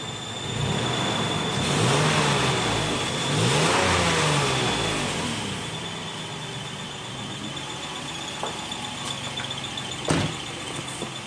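Toyota Prado engine revved twice, the pitch rising and falling each time, then settling back to a steady idle. A steady high whine runs under it, and there is a single sharp knock about ten seconds in.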